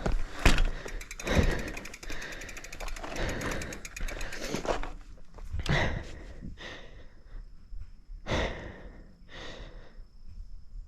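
Mountain bike riding over a dirt jump trail: a rapid, even ticking of the rear hub freewheel while coasting for about four seconds, with several sharp thuds from the wheels hitting the dirt.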